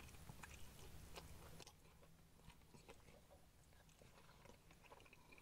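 A man chewing a mouthful of fried chicken leg, very faint, with a few small mouth clicks; otherwise near silence.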